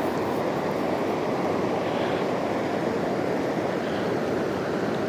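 Steady rush of the Kern River's fast-flowing current.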